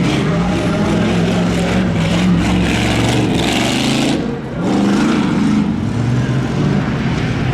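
Stock-class truck engine revving hard under load, its pitch rising and falling, with a brief drop in throttle about four and a half seconds in before it picks up again.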